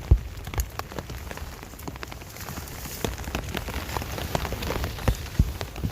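Rain falling on a basha, a tarp shelter overhead: single drops strike it irregularly over a steady hiss of rain.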